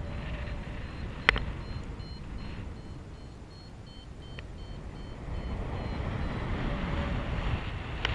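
Wind rushing over the microphone in flight, getting louder in the second half, with a paragliding variometer giving short high beeps through the first half. A single sharp click sounds about a second in.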